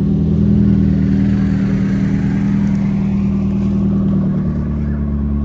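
A motor vehicle's engine running steadily close by, holding an even pitch.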